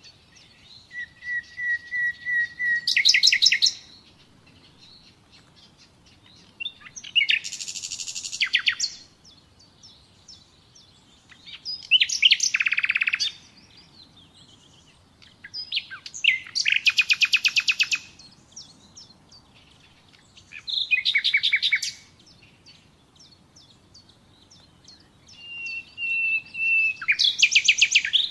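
Nightingale singing in six separate phrases a few seconds apart. Each phrase is a fast run of repeated notes, and some open with a long steady whistle that swells into a rapid rattle.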